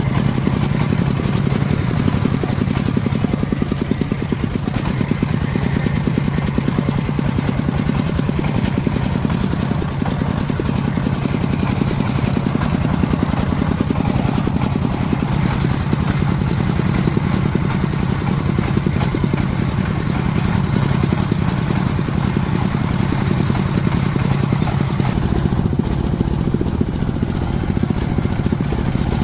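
Small farm truck's engine running steadily, a continuous low mechanical drone.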